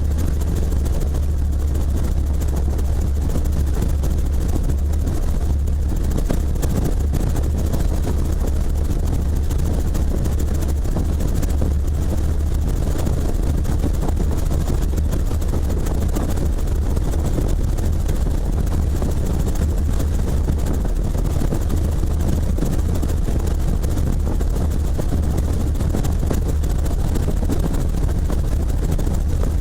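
Helicopter in flight: steady rotor and engine noise with a strong low drone that holds level throughout.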